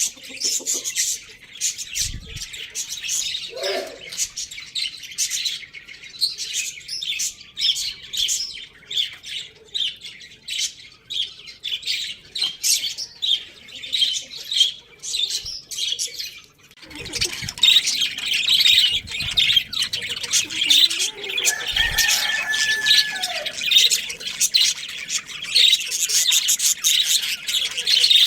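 Many small birds chirping and chattering in a dense, rapid stream of high calls. It grows louder and busier about two-thirds of the way through, and a few lower calls break in now and then.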